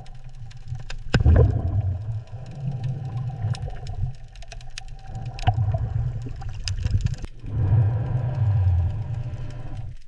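A low, uneven mechanical rumble with scattered sharp clicks and ticks, swelling and easing a few times, and a faint steady tone above it.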